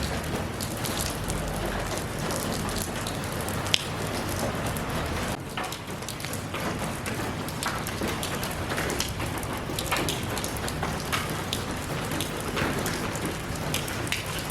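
Steady rain falling, with many small drops pattering on a surface and one sharper drop tick about four seconds in.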